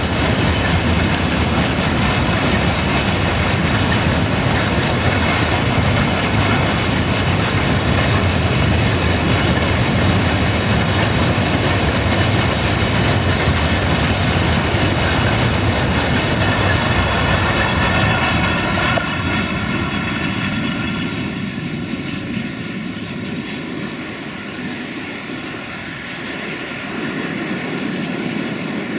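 Open freight wagons rolling past close by: a steady, loud rumble of steel wheels on the rails. About two-thirds of the way through it drops suddenly to a quieter, more distant rolling as the wagons move away.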